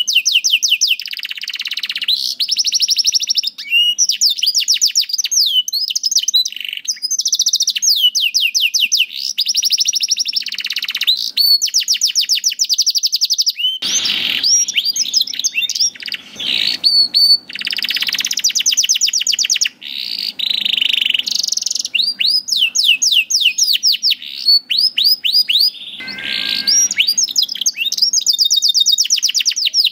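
Domestic canary singing continuously in full song: long runs of rapid repeated notes and rolling trills, changing from phrase to phrase with barely a pause.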